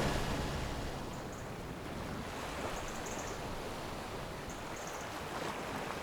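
Steady rushing of wind and water around a boat under way in a strong breeze: an even hiss with no distinct events, easing slightly at first and then holding level.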